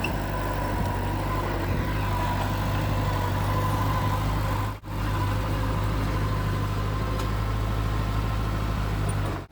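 Heavy diesel engine of earthmoving machinery running steadily with a low, even hum and a thin whine above it, broken by a momentary dropout about halfway through.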